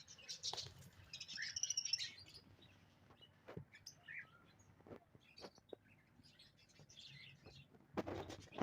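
Small pet birds chirping: quick runs of high chirps in the first two seconds, then scattered chirps and clicks. A brief rustling burst comes near the end.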